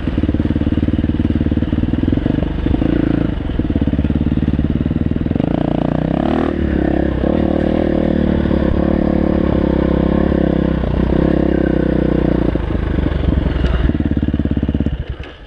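Dirt bike engine running on the trail, the pitch rising in a rev about six seconds in and otherwise holding fairly steady. The engine sound stops abruptly near the end.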